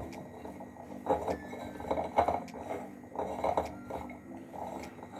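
A utensil mixing chopped chicken and vegetables in a bowl, with irregular clinks and scrapes against the bowl.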